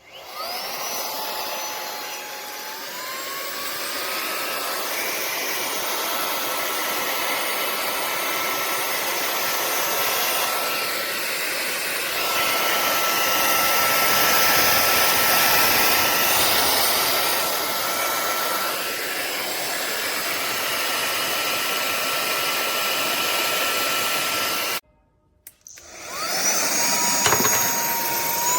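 Grixz cordless handheld vacuum cleaner with brushless motor switched on: its whine rises as the motor spins up, then runs steadily over the rush of air. It cuts off suddenly near the end and is switched straight back on, spinning up again.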